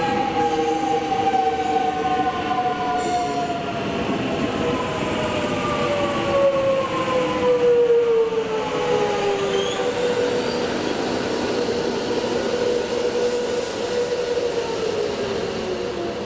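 Melbourne Metro electric suburban train at the platform, its motor whine a set of tones falling slowly in pitch as it slows, over the rumble of wheels on rail. One tone holds steady for a few seconds, then drops again near the end as the sound begins to fade.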